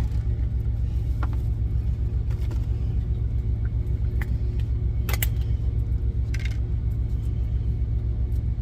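Engine idling with a steady low rumble, heard inside the truck's cab. There are a few short, sharp clicks and taps, the loudest about five seconds in.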